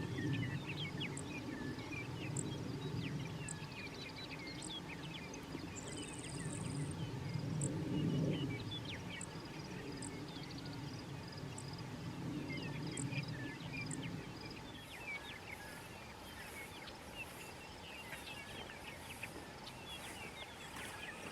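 Many small birds chirping over open grassland, with a high tick repeating about once a second. A low, uneven rumble runs under them and fades out about fourteen seconds in.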